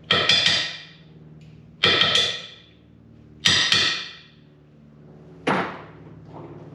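Impact wrench hammering on a pickup's bed bolts in four short bursts, each a quick rattle of blows with metallic ringing. A steady low hum runs underneath.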